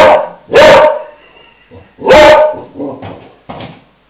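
Dog barking: three loud barks in the first half, then a few quieter, shorter sounds.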